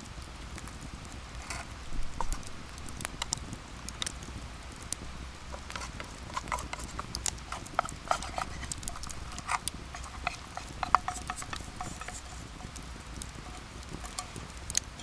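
Irregular light knocks and clicks, some close together, over a low steady hum.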